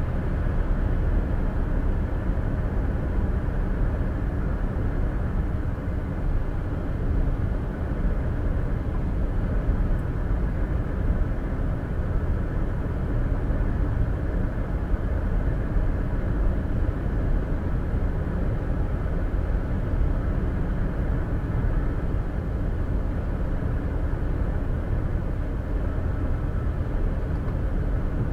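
Steady road and tyre noise of a car cruising at highway speed, heard from inside the cabin through a dash cam's microphone: an even, low rumble that does not change.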